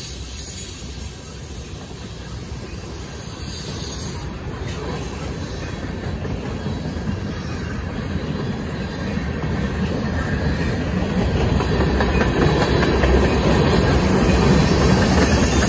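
Freight train cars rolling past, tank cars and a flatcar: a steady rumble of steel wheels on rail with some wheel clatter, slowly growing louder toward the end.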